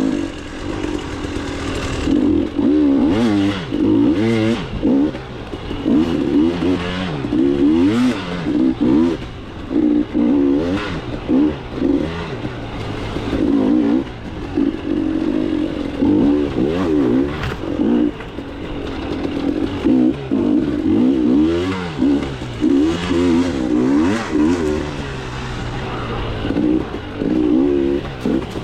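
KTM 300 two-stroke single-cylinder dirt bike engine being ridden hard, the revs rising and falling every second or two as the throttle is opened and closed. A few sharp knocks come through along the way.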